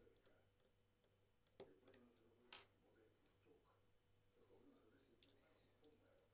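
Near silence with a low steady hum and three faint sharp clicks, like small objects being handled on a workbench.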